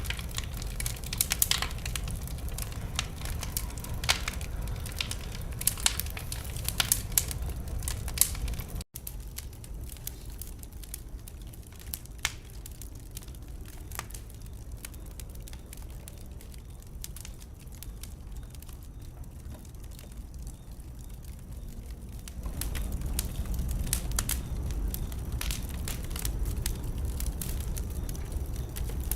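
Wood fire crackling in a fireplace: a steady run of sharp snaps and pops over a low rumble of the flames. It cuts out for an instant about nine seconds in, stays quieter and sparser through the middle, and grows louder again a little past twenty-two seconds.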